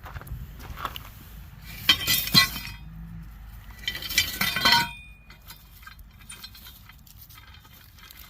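Steel three-point hitch parts clanking and ringing against each other as they are handled, in two loud bursts about two seconds and four to five seconds in, with lighter knocks between.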